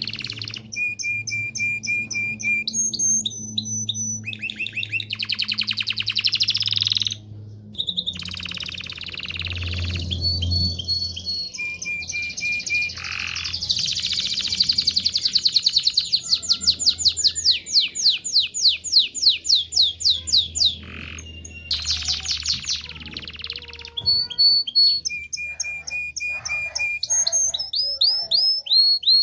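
Domestic canary singing a long, varied song of fast trills and rolls, strung together with short held whistles, with brief pauses about a third of the way in and again about three quarters through.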